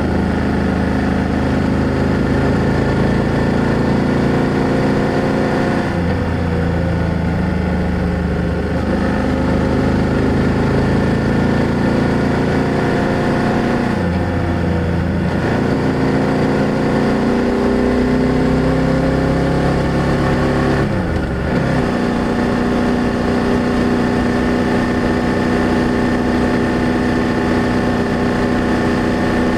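A BMW F800GS motorcycle's parallel-twin engine running on the road, recorded at the exhaust. Its note drops and climbs again a few times as the throttle is eased and reopened.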